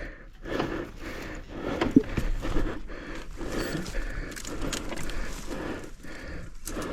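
Irregular footsteps and knocks, with the loudest sharp knock about two seconds in, and hard breathing.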